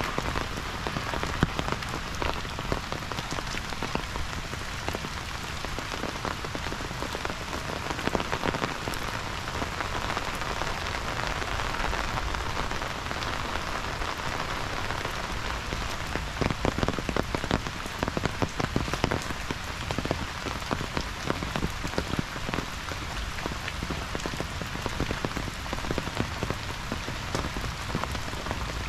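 Heavy rain falling steadily: an even hiss of downpour with many individual drops ticking through it.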